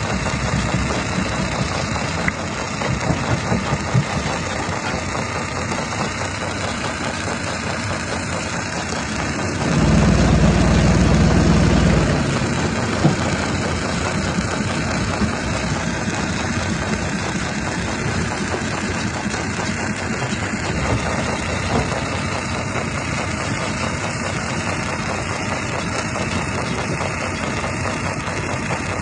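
Jaw rock crusher running, a steady mechanical drone with scattered sharp knocks, swelling into a louder low rumble for about two seconds about a third of the way through.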